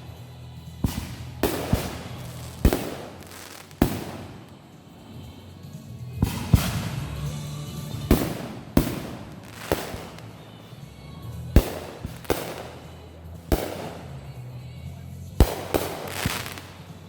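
Backyard fireworks going off: a sharp bang every second or so, at uneven spacing, each trailing into a short crackle or echo.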